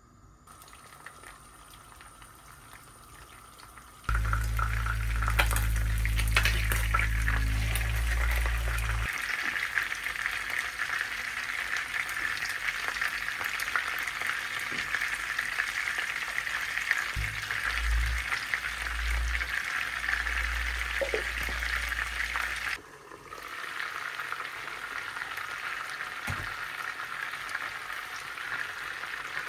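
Food sizzling as it fries in a pan. The sizzle starts suddenly about four seconds in, with a low hum under it for the first few seconds, and turns quieter near the end.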